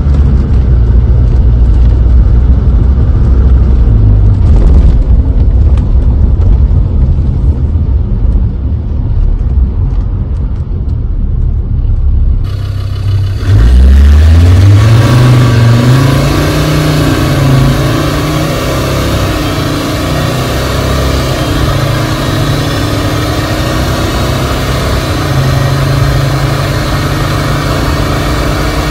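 In-cabin sound of a Land Rover Discovery's TD5 five-cylinder turbodiesel driving through a swapped ZF 8-speed automatic: a steady engine and road drone. About thirteen seconds in, the engine note rises as the vehicle accelerates away, then settles into a steady cruise.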